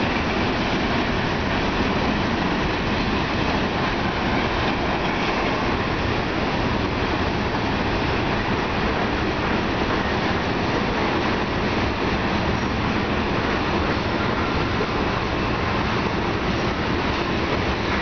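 Manifest freight train's cars, covered hoppers and boxcars, rolling steadily past at low speed, their wheels running over the rails.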